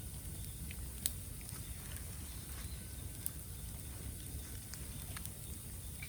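Bamboo burning in a bonfire, crackling with a few sharp pops over a low steady rumble.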